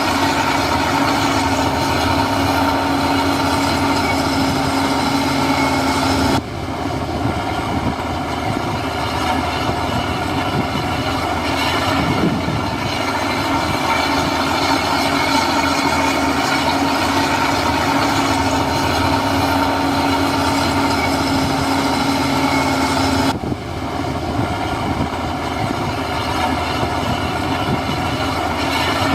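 Heavy diesel construction machinery running steadily: a continuous engine drone with steady whining tones. The sound changes abruptly about six seconds in and again near the end.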